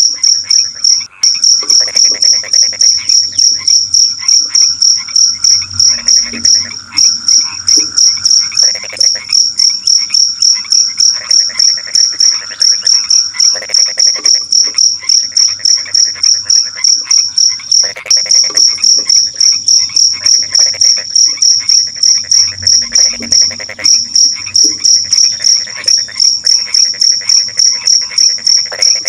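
Cricket chirping in a loud, high, even rhythm with no break, over frogs croaking in repeated bouts underneath.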